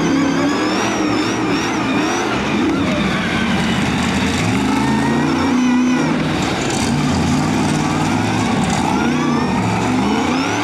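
Monster truck engine revving hard, its pitch rising and falling several times as the throttle is worked.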